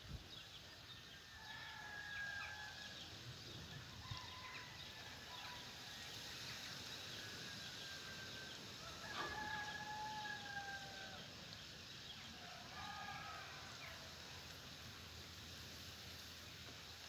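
Roosters crowing faintly several times, the longest and loudest crow about nine seconds in, over small birds chirping.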